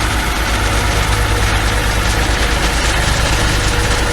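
Compaction machinery running: a steady engine with a rapid, even low pulse.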